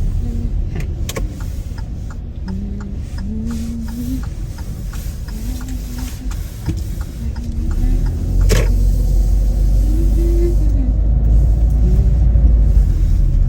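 Car on the road: a steady low rumble of engine and road noise that grows louder about eight seconds in. A faint wavering melody runs underneath, with a run of quick light ticks in the first half and a sharp click just after the rumble rises.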